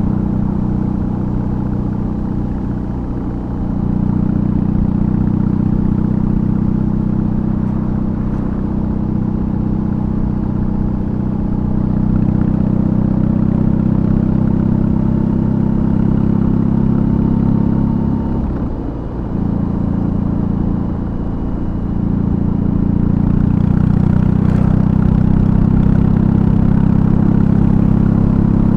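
BMW R18's 1,802 cc boxer twin running under way through a custom exhaust, with brief dips in the engine note about three seconds in and again around nineteen seconds, then pulling louder near the end.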